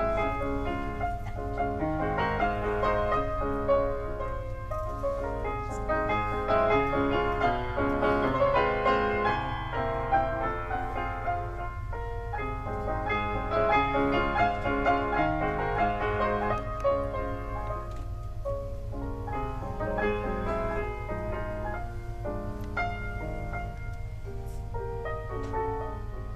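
Piano music, a run of quick notes over a steady low hum.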